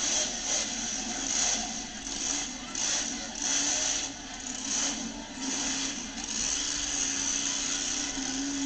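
Monster truck engine revving in repeated surges that rise and ease off, with a steady drone under them, then holding more evenly near the end.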